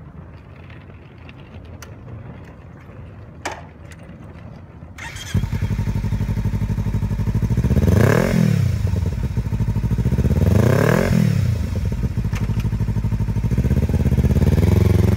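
Kawasaki Ninja 300 parallel-twin with a Yoshimura aftermarket exhaust, starting up about five seconds in after a single click. It is then revved twice, each rev rising and falling back to idle, and it begins rising again near the end.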